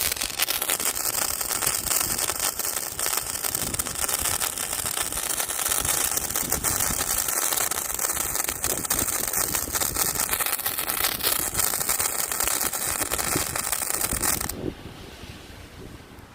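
Spark-spraying firework burning with a steady, loud hiss and fast crackle, stopping suddenly near the end as it burns out.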